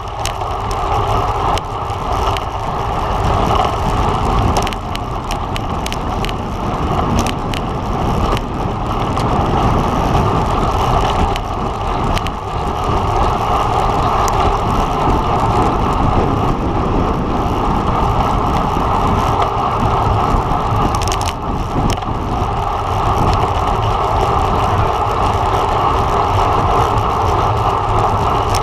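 Steady rush of wind and tyre noise on a camera riding on a road bike, with a few brief clicks.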